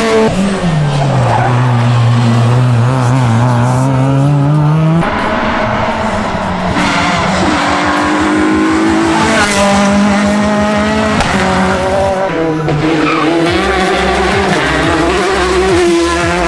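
Rally car engines revving hard and shifting gear, pitch dropping and climbing between shifts, with tyre squeal. The sound changes abruptly about five seconds in and again near twelve seconds, as one car's run gives way to another.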